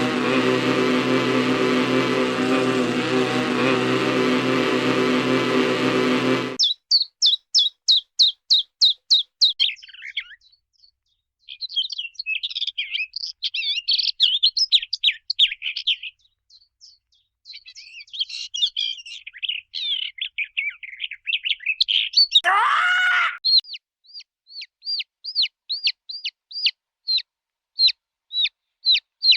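Stock cartoon sound effects. A steady drone of many held tones cuts off suddenly about six seconds in. Bird chirps and twittering follow: quick repeated high chirps, stretches of busy twittering, one sharp downward sweep about 22 seconds in, then evenly spaced high chirps about three a second.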